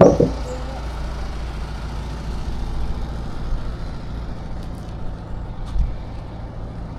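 Narrowboat engine running steadily, a low even drone, with a sharp knock as it comes in and a dull thump near the end.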